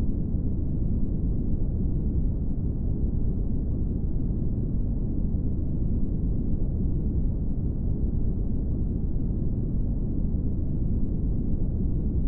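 Steady brown noise: an even, deep rushing hiss, strongest in the bass and with no high end, unchanging throughout.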